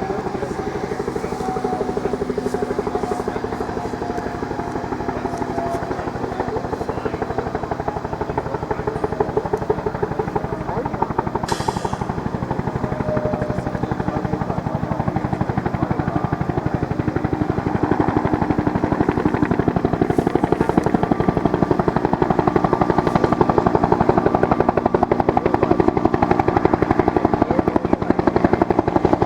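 A U.S. Army UH-1 Huey helicopter running, its two-blade main rotor beating in a fast, even rhythm over the turbine's steady whine. It grows slightly louder toward the end.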